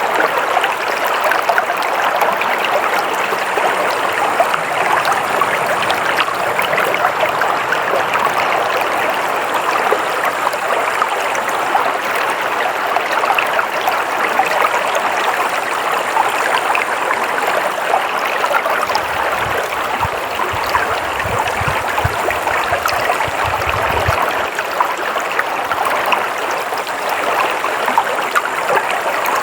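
Flowing stream water, a steady babbling and trickling over rocks. A faint low rumble joins it for a few seconds past the middle.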